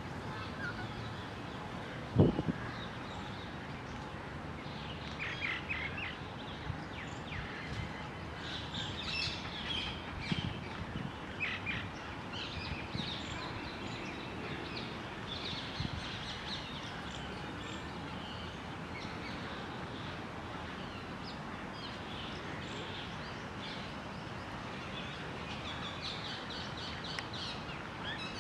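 Scattered short bird chirps and calls over a steady outdoor background hiss, with a single low thump about two seconds in.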